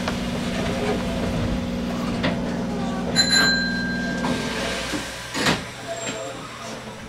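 Hanshin Railway local train standing at the platform as its doors close. A steady low hum fades out about four seconds in. A short ringing tone with clicks comes about three seconds in, and a sharp knock follows about five and a half seconds in.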